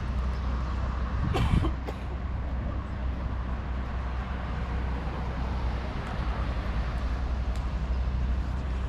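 Steady low outdoor background rumble, with a brief knock about one and a half seconds in.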